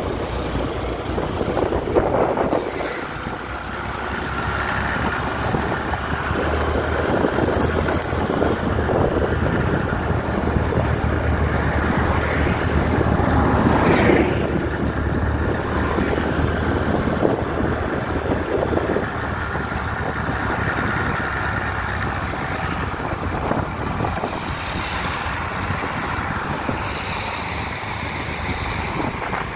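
Motor vehicle running on the road: a steady low engine hum under continuous road noise, swelling briefly about two seconds in and again about halfway through.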